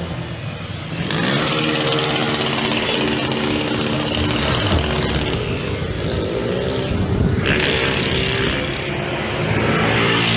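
Small motorcycle engines revving hard as they ride past, getting loud about a second in and rising in pitch again near the end.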